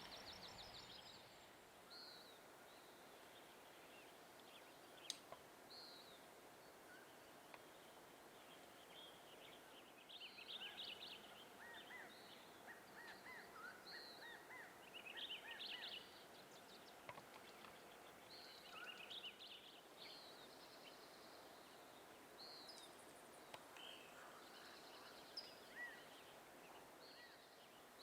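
Wild birds calling and singing: many short chirps and quick trilled phrases, busiest from about ten to sixteen seconds in, over a faint steady hiss of forest ambience.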